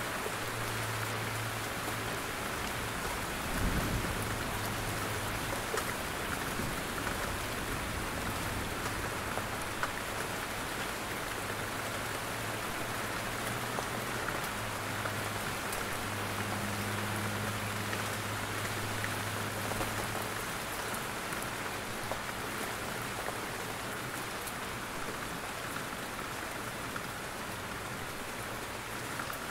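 Steady rain falling in a forest, with individual drops from the trees ticking throughout. There is a short low thump about four seconds in, and a faint low rumble comes and goes during the first two-thirds.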